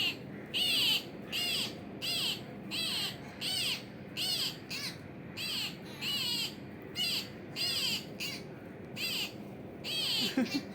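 Peacock chick peeping over and over: short high arched chirps, about two a second, keeping an even rhythm.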